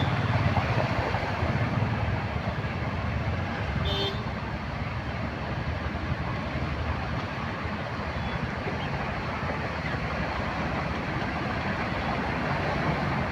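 Road traffic noise: a steady rush of passing vehicles, with a brief horn toot about four seconds in.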